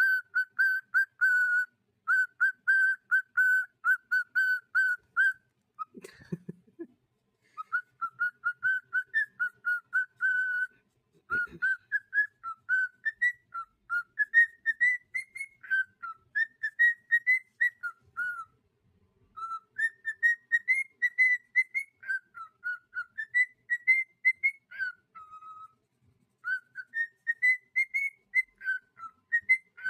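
Cockatiel whistling: a fast run of short notes on one pitch for about five seconds, then a warbling tune that rises and falls, broken by short pauses. A brief low sound breaks in about six seconds in.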